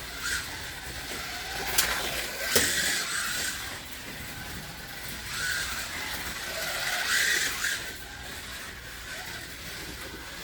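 1/24 scale slot cars running laps: the electric motors whine and the cars hiss along the track, swelling every few seconds as a car passes close, with two sharp clicks about two seconds in.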